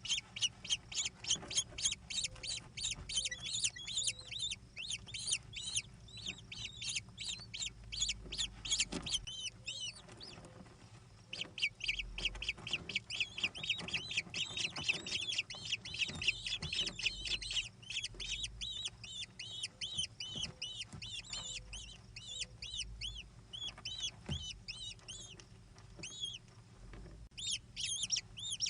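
American kestrels calling in long, rapid series of shrill, high notes, several a second, with brief breaks about ten seconds in and again near the end.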